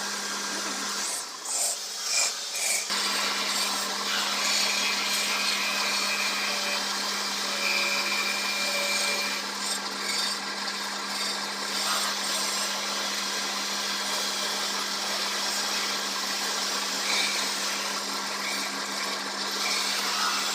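Wood lathe running with a steady hum while a turning tool scrapes and cuts the spinning teak, with a few short squeals. The cutting noise breaks off briefly near the start, then carries on.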